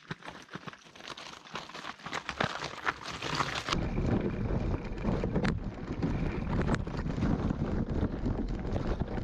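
Crunching and clicking on loose gravel, then from about four seconds in heavy wind buffeting the microphone, as when riding a gravel bike into the wind.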